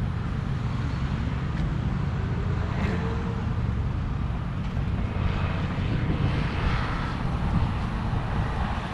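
Steady low rumble of distant engines, with a hissing wash that swells about five seconds in and fades near the end.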